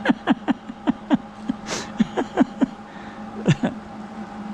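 A man laughing in a run of short bursts, each falling in pitch, with a steady low hum underneath.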